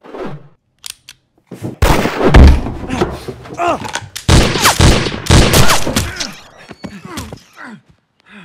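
Gunfight: a rapid string of revolver shots, starting about two seconds in and going on for some five seconds, loudest near the start.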